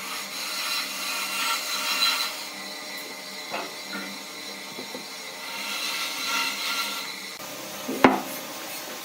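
A hand tool scraping and rubbing across wood in uneven strokes, with a single sharp knock about eight seconds in.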